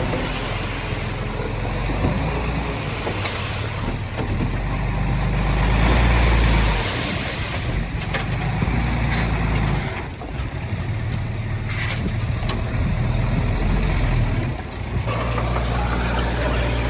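Heavy diesel machinery engines running, swelling louder for a couple of seconds near the middle, with a short hiss a little past the middle.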